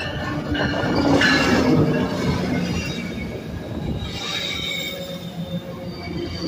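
Metrolink MP36PH-3C diesel locomotive pulling a commuter train into a station and passing close by, loudest about a second in, followed by bi-level passenger coaches rolling past with high-pitched wheel squeal as the train slows to stop.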